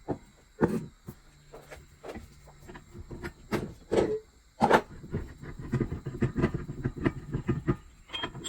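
Metal clicks and knocks of a wrench working a ball joint press, backing the press screw off after seating a ball joint in a steering knuckle. A few sharp knocks come first, then a dense run of clicks from about halfway through.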